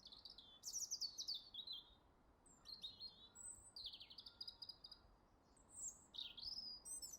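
Faint songbird chirping: quick high notes and short downward-sliding whistles in several phrases, with brief gaps between them.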